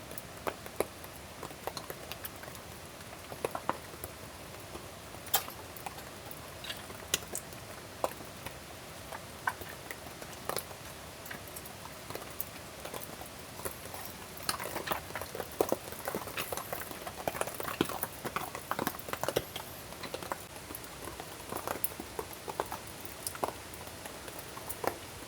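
Rain: a steady hiss with scattered drops pattering and ticking irregularly, thicker for several seconds a little past the middle.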